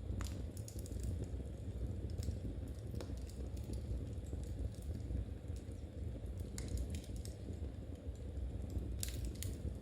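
Wood fire burning in a fireplace: a steady low rumble with a few sharp, irregular crackles and pops.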